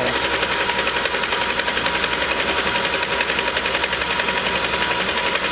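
Singer sewing machine running steadily at speed, its needle going in rapid, even strokes as it sews a decorative pattern stitch from a top hat cam.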